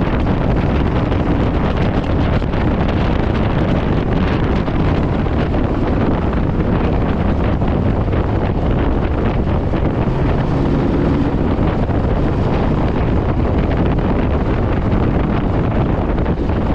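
Wind rushing hard over the microphone at riding speed, with the Honda VTX1800's V-twin engine running low and steady underneath.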